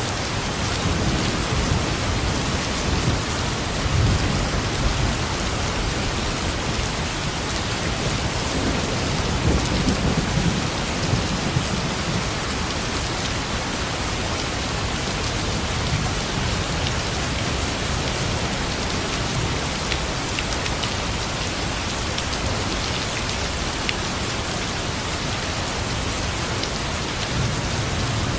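Steady rain falling, a dense even hiss, with low rumbling swells a few seconds in and again about ten seconds in.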